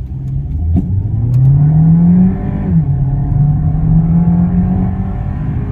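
Skoda Slavia's 1.5-litre turbocharged four-cylinder petrol engine under hard acceleration: the engine pitch climbs steadily, drops sharply at an upshift about two and a half seconds in, then climbs again in the next gear.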